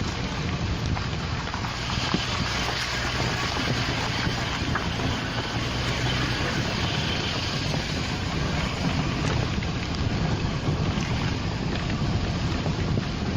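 Steady wind buffeting the microphone, with a low, even rumble underneath.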